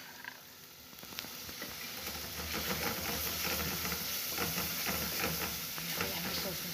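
Onion and tomato paste sizzling in an aluminium pot, stirred with a wooden spoon that scrapes against the pot; the stirring strokes start about two seconds in and go on in quick succession.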